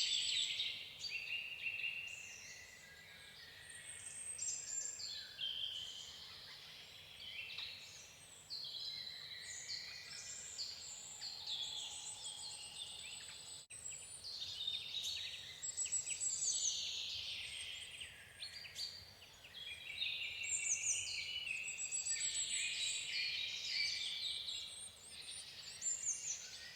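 Birdsong: several small birds chirping and trilling at once, many short calls overlapping.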